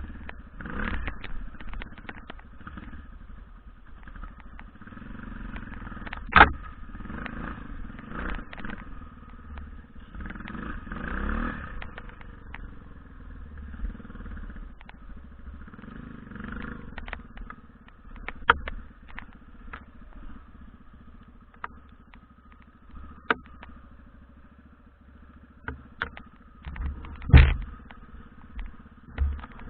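BM Enduro 250 dirt bike engine running unevenly, its note rising and falling as it is ridden, with many sharp knocks and clatters, the loudest about six seconds in and again near the end.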